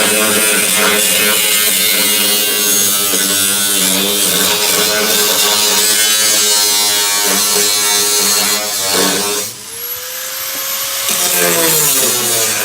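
Angle grinder with a cutting disc cutting through a car's double-skinned steel sill, a sill welded over a sill. About nine and a half seconds in, the disc comes out of the cut and the motor's whine rises as it spins free, then drops again as it bites back into the metal near the end.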